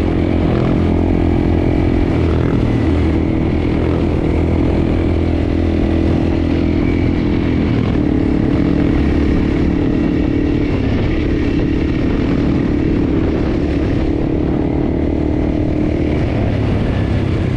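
Enduro motorcycle engine running steadily under way, its note shifting slightly a few times.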